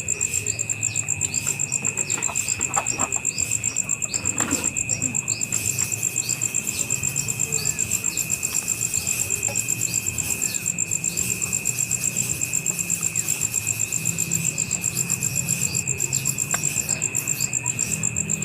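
Insects chirping steadily: a continuous high trill pulsing rapidly and evenly, with a second steady, lower tone underneath.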